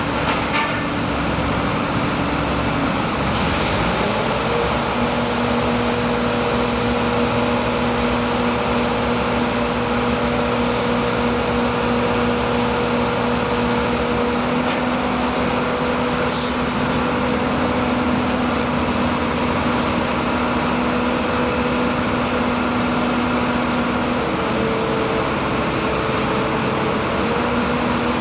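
An engine running steadily over a constant noisy drone; its hum steps up in pitch about four seconds in and then holds level.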